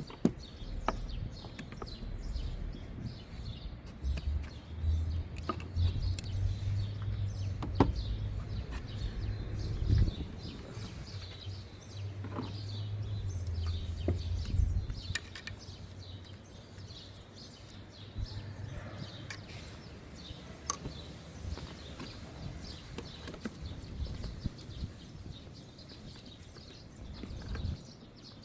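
Birds chirping outdoors, with a low rumble for about twelve seconds in the first half and scattered sharp clicks and knocks.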